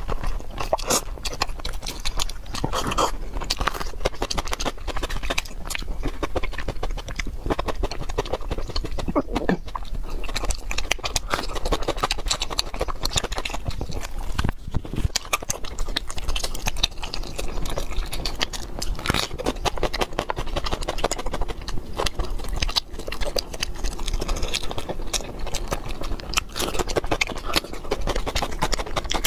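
Close-miked eating: wet crunching and chewing of a raw green bell pepper stuffed with noodles, with noodle slurps and mouth smacks, a dense run of crisp crunches with no pause.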